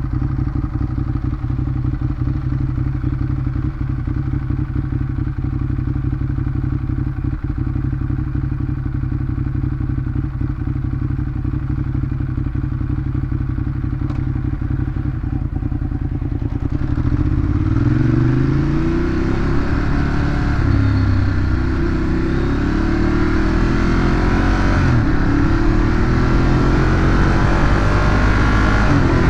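Ducati Monster 821's 821 cc Testastretta L-twin engine, on its stock exhaust, running at a steady low pitch, then about seventeen seconds in pulling away and accelerating through the gears in a series of rising pitch sweeps.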